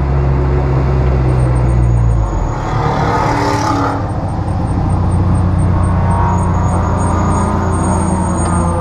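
Neon race car's four-cylinder engine running at low speed, heard from inside the stripped cabin. The engine note drops about two and a half seconds in, a brief rush of noise follows, and then it settles to a steady drone.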